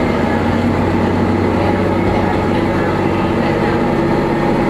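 Diesel railcar running at steady speed, heard from inside the car: a continuous engine drone with wheel-on-rail noise.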